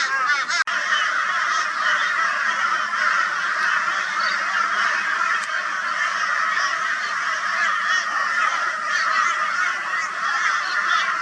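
A flock of crows calling together in a loud, raucous, unbroken chorus of overlapping caws, mobbing a barn owl.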